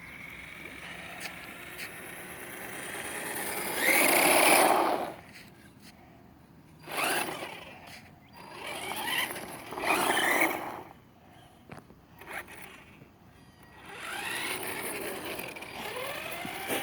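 Remote-control toy truck's electric motor whirring in several bursts as it speeds up and slows, with the pitch rising and falling. The loudest burst is about four seconds in, shorter ones follow around seven and ten seconds, and it runs again near the end.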